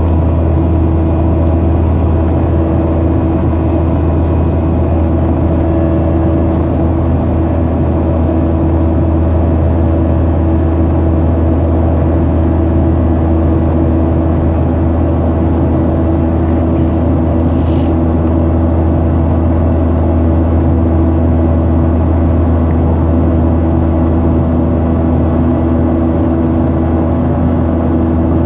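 Boeing 737-800 cabin noise in climb: a loud, steady low drone of its CFM56-7B turbofan engines and airflow, with several steady hums over it. One brief, faint high chirp about two-thirds of the way through.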